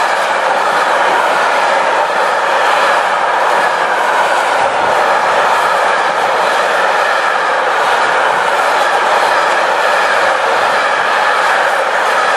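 Empty container flat wagons of a long freight train rolling past close by: a steady, loud noise of steel wheels running on the rails, with faint repeated wheel clicks.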